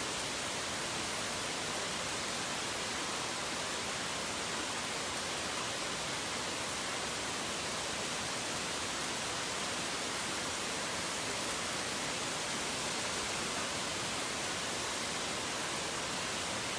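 Steady rain as an even, unbroken hiss, with no separate drops, thunder or birds standing out.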